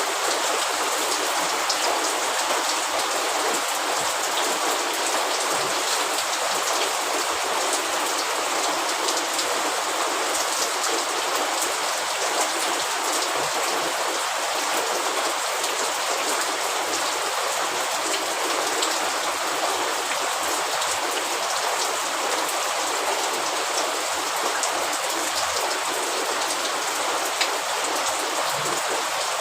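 Steady rain falling, a dense, even hiss of many small drop impacts that holds constant throughout.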